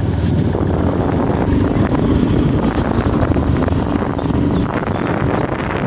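Motorcycle engine running while riding, with heavy wind buffeting on the microphone.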